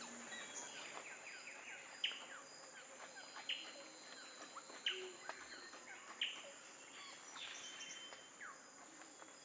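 Twelve-wired bird-of-paradise calling with short, sharp descending notes, four of them about a second and a half apart, among softer chirps of other birds and a steady high insect drone.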